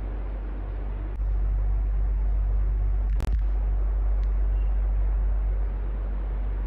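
Electric fan running steadily: an even airy whoosh over a low hum. About a second in the low rumble grows louder and stays up until near the end, and a sharp click sounds about three seconds in.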